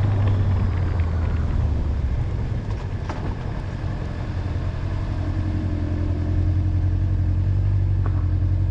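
Honda motorcycle engine running steadily under way, a low, even drone.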